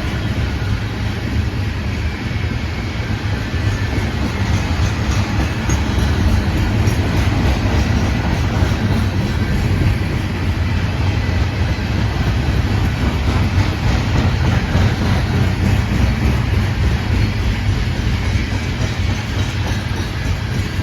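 Freight cars of a Norfolk Southern trash train rolling past, their steel wheels running steadily on the rails.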